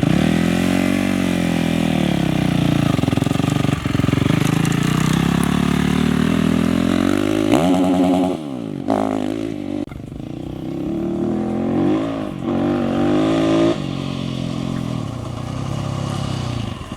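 Off-road race motorcycle engines revving hard through gear changes, one passing close a little past halfway with a steep drop in pitch, then more engines rising and falling.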